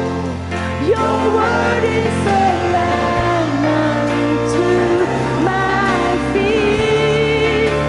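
Worship song: a singing voice carries a melody over band accompaniment with sustained bass notes.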